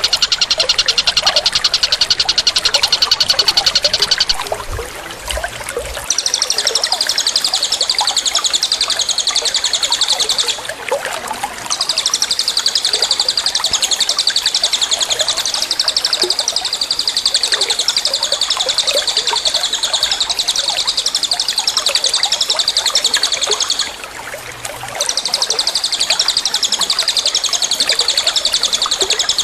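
Songbird giving a long, very fast, high trill that runs on and on, stopping briefly three times: about four seconds in, about ten seconds in and near the end.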